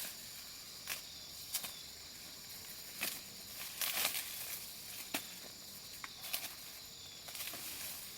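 Dry leaves rustling and crackling in irregular short snaps as plants are handled, the busiest stretch about three to four seconds in, over a steady high insect drone.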